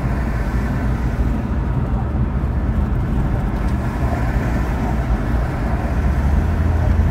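Infiniti Q50 Red Sport 400 driving along, its 3.0-litre twin-turbo V6 and the tyres giving a steady low rumble with road noise, growing a little louder near the end.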